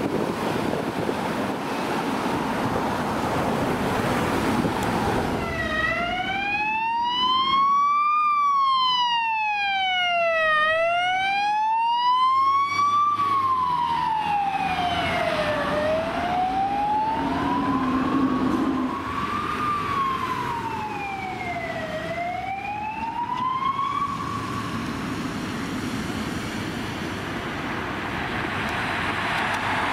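Emergency vehicle siren wailing, its pitch rising and falling slowly, about five seconds per cycle; a second, fainter siren overlaps for a few seconds midway. Road traffic noise comes before the siren starts about five seconds in, and returns after it fades away near the end.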